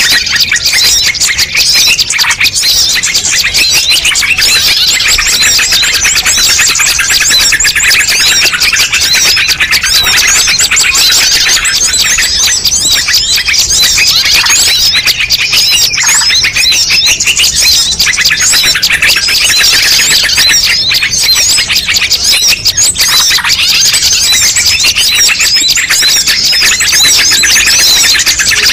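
A loud, dense chorus of many small birds chirping and trilling at once, rapid overlapping calls that never pause: a mixed-species bird-lure (pikat) recording meant to draw in all kinds of birds.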